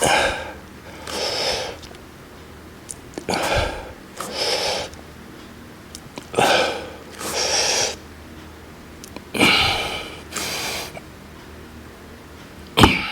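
A man breathing hard and rhythmically through a set of bird-dogs: four pairs of sharp, noisy breaths, an out-breath and an in-breath, each pair about three seconds apart, one pair per rep.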